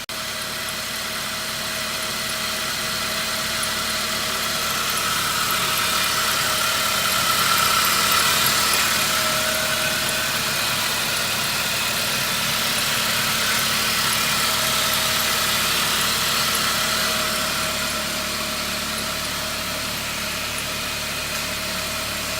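Saab car engine idling steadily, its tone holding level while the loudness swells a little about a third of the way in and then eases back.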